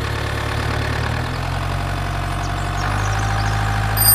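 Steady engine-like idling drone that shifts in pitch about a second in and again near three seconds in, where a thin steady whine joins it.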